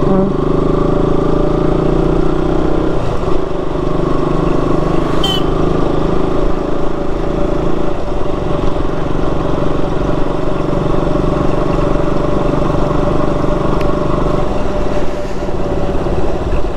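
Motorcycle engine running at a steady cruise, picked up on the moving bike, with a steady road and air noise beneath it; the engine note shifts slightly about three seconds in.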